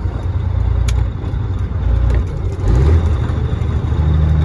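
Caterpillar 3406E diesel engine of a Freightliner FLD120 semi truck running at low road speed, its low drone steady, with the engine note changing a little under three seconds in. A single sharp click about a second in.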